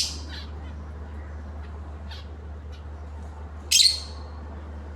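Pet lovebirds giving short, shrill squawking calls: one right at the start and a loud double call a little before four seconds in, with a few faint chirps between. A steady low hum runs underneath.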